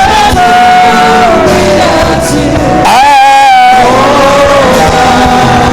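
Worship music with a voice singing long, drawn-out notes, the pitch sliding into each held note.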